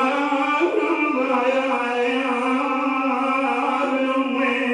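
A male chanter's voice holds one long sung note of a Shia religious chant (nasheed), with a small shift in pitch about half a second in.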